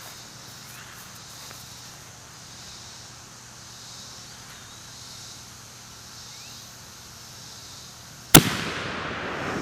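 Black-powder mini cannon firing a projectile: after a quiet stretch, one sharp bang about eight seconds in, its report dying away over a second or so.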